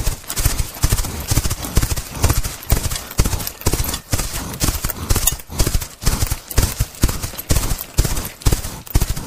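Horse hooves beating out a fast, uneven run of hoofbeats, several strikes a second.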